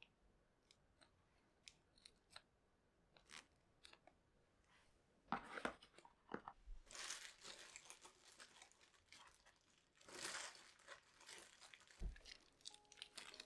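Faint handling noises: scattered small clicks, then two spells of crinkling and rustling, like paper or packaging being handled, and a soft low thud near the end.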